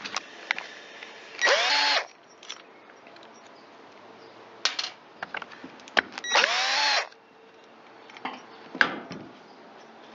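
Power drill-driver with a Torx bit running in two short bursts, about a second and a half in and again about six seconds in, each spinning up with a rising whine. Light clicks and knocks of tools and parts come between the bursts.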